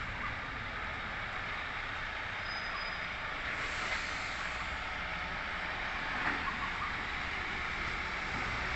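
MAN TGS 26.320 garbage truck running steadily. A brief hiss comes about four seconds in, and a few light knocks just after six seconds.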